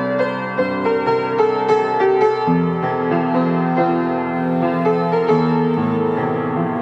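Instrumental passage of a song: piano or keyboard playing sustained chords and melody notes, the chords changing every second or two.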